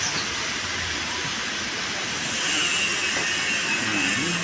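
Steady hissing rush of a pressure-washer water jet spraying an air conditioner's coil, getting a little louder about two seconds in.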